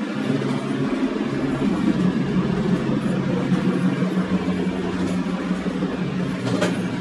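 Passenger train running along the track at speed: a steady rumble of wheels on rails with a low hum, and one short sharp click near the end.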